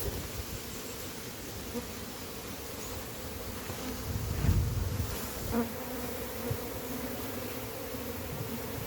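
A large colony of honey bees buzzing in a steady, dense hum, with a louder low rumble about four seconds in.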